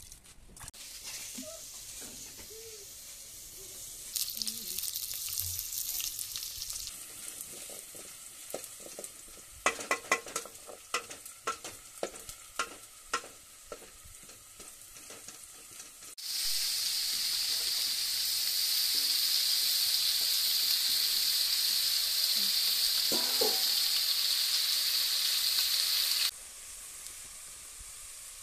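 Food frying in a metal pot over a wood fire, stirred with a spatula that knocks and scrapes against the pot in a quick run of knocks. About halfway through, a loud, steady sizzle starts abruptly and cuts off suddenly some ten seconds later.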